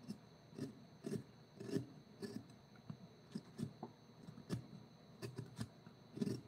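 Hand tools working wood: irregular light taps and scrapes, one or two a second.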